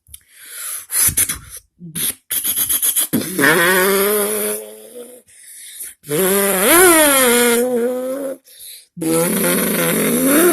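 A person's mouth imitation of an upgraded Nissan Skyline GT-R engine. It starts with breathy rapid sputtering pulses, then three long buzzing revs, the middle one rising in pitch and falling back.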